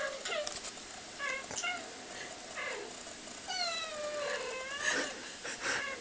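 Domestic cat meows: several short calls, then one longer meow about three and a half seconds in that falls in pitch.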